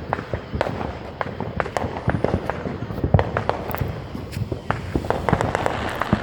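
Consumer fireworks going off: a rapid, irregular crackle of many sharp pops, several a second, with a few louder bangs among them.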